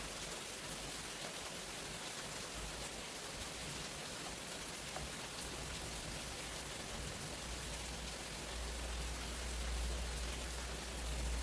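Steady heavy rain falling during a thunderstorm. Near the end a low rumble builds under the rain.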